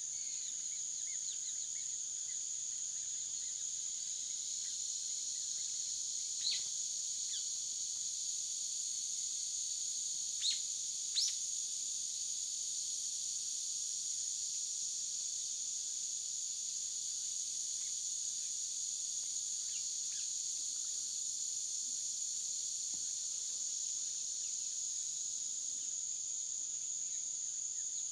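Steady high-pitched drone of insects calling in the forest, with three short bird chirps near the middle.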